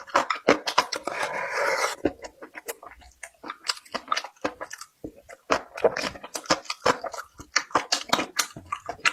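Close-miked chewing: many quick, irregular wet clicks and smacks of a mouth eating, with a denser noisy stretch about a second in.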